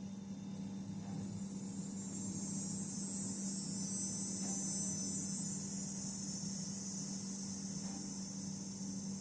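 A high insect buzz that swells for a few seconds and then fades, over a steady low hum.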